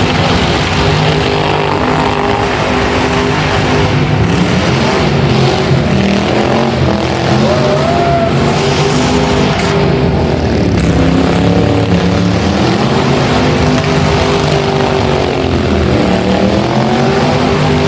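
Car engines revving hard and running continuously, their pitch climbing and dropping again and again as the cars are driven in an arena exhibition.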